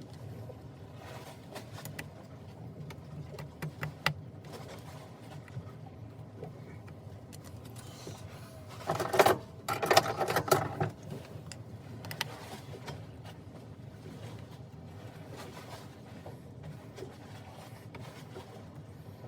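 Small electric drill running in two short spurts about nine to eleven seconds in, drilling pilot holes into the plastic throttle control head, with scattered small clicks and taps of handling.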